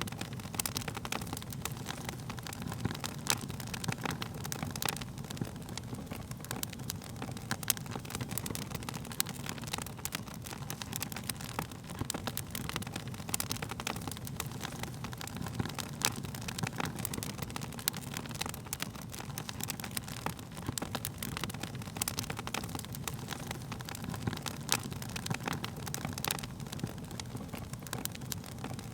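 Wood fire crackling: frequent sharp snaps and pops, irregularly spaced, over a steady low rumble of burning flames.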